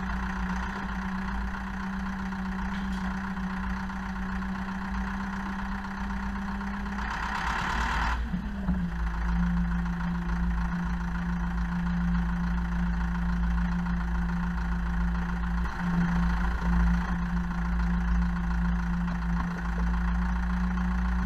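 Zetor Proxima 80 tractor's diesel engine running steadily at a low, even speed. About seven seconds in there is a brief hiss lasting about a second, after which the engine note dips and settles slightly lower.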